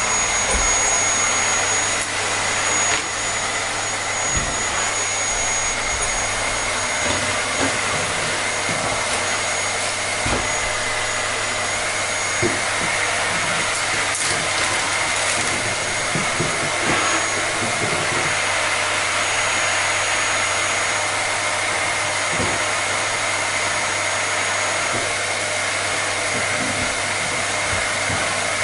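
Vacuum cleaner running steadily: a constant rushing hiss of air with a thin high whine from the motor.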